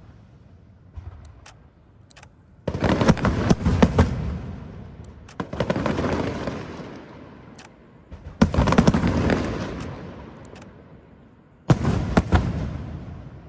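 Fireworks going off in four loud bursts about three seconds apart. Each burst is a cluster of sharp bangs followed by a fading crackle, with a few single pops between the bursts.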